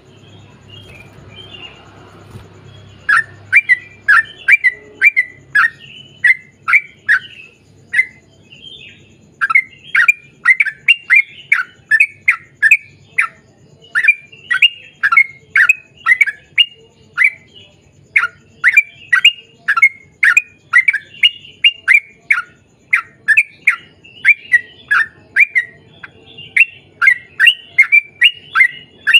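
Yellow-vented bulbul (trucukan) singing long, rapid runs of short, sharp notes that each drop in pitch, two or three a second. The run starts about three seconds in after a few faint chirps and pauses briefly near eight seconds in.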